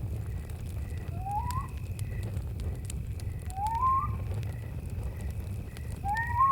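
Campfire burning with a steady low rumble and scattered sharp crackles. Crickets chirp in a regular pulse, and three short rising calls sound about a second in, midway, and near the end.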